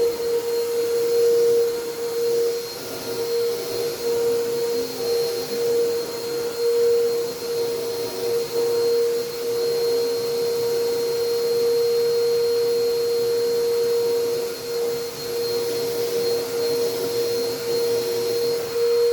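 Vacuum cleaner running steadily: a motor whine with one strong held tone over a rush of air, its loudness dipping and rising.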